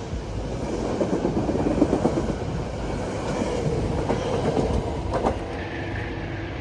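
A passenger train running past on the tracks, a steady rumble with wheels clicking over rail joints, loudest in the first few seconds and easing off toward the end.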